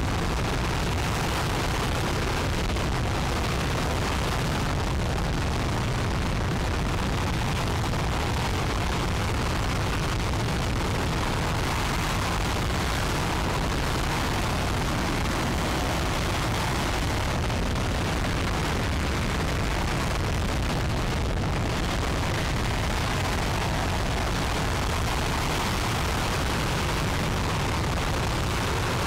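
RS-25 liquid-hydrogen/liquid-oxygen rocket engine firing on a test stand: a steady, unbroken noise spreading from deep bass up to hiss, with no change in level.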